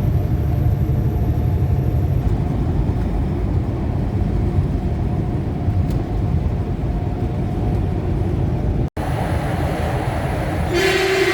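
Steady low rumble of a heavy vehicle, cut off for an instant a little before the nine-second mark, then a long horn blast that starts near the end and keeps sounding.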